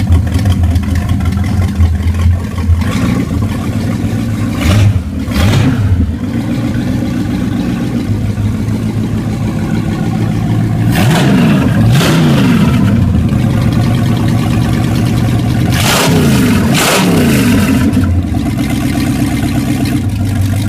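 Ford 351 Windsor V8 running at its first startup in about 15 years. It idles steadily, and the revs rise and fall in throttle blips about five seconds in, around eleven to twelve seconds, and again around sixteen to seventeen seconds.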